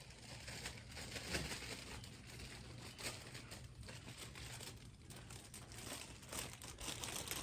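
Faint, irregular rustling and crinkling, with short crackles, as dry material is handled.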